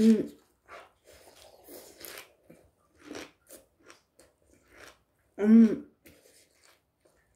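A person chewing and slurping bean sprouts eaten with chopsticks, with soft scattered mouth noises. Two short, loud vocal sounds from the throat stand out, one at the very start and one about five and a half seconds in.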